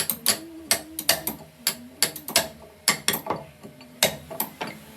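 Hand hammer striking in woodworking: a quick, uneven run of sharp knocks, about three a second, each with a short ring.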